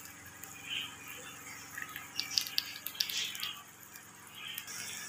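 Bitter gourd and onions frying quietly in oil in a wok with a faint sizzle, and a few light clicks and scrapes of a spatula against the pan about halfway through.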